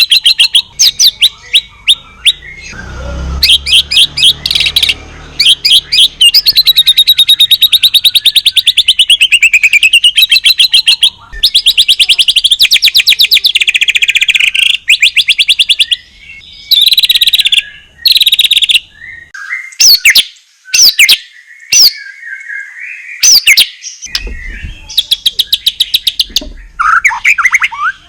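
White-rumped shama (murai batu) singing loudly in long, fast trills that sweep up and down in pitch, broken by short pauses and sharp single whistled notes. A low rumble sits under the song twice.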